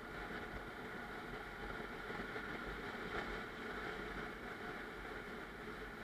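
A car driving, with a steady rush of road and tyre noise and a low rumble.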